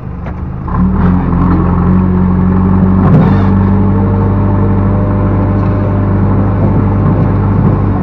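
Backhoe loader's diesel engine revving up about a second in and then holding at steady high revs, with a brief knock about three seconds in.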